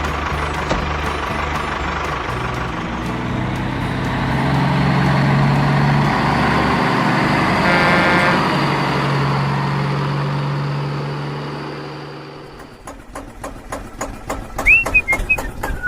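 A vehicle engine running steadily, swelling and then fading away about 13 seconds in. Rapid clicking and short whistle-like chirps follow near the end.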